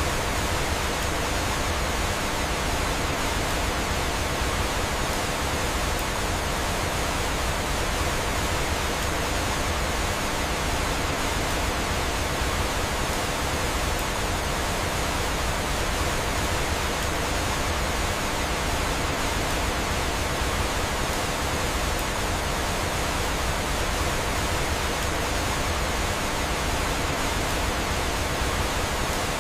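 Steady, even rushing of flowing water, like a small waterfall.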